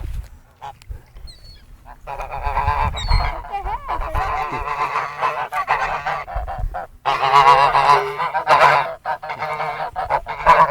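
A crowd of waterfowl calling loudly over one another as they are fed bread. The calls start about two seconds in, pause briefly in the middle, then pick up again.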